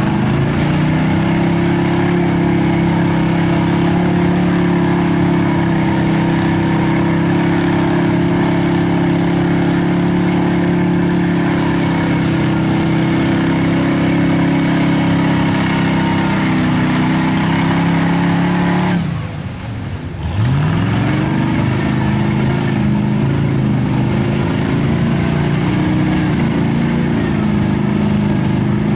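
Mud truck engine held at high revs, its pitch climbing at the start and staying up; about two-thirds through the throttle is let off for a second and the engine drops away, then it climbs back up and holds high again.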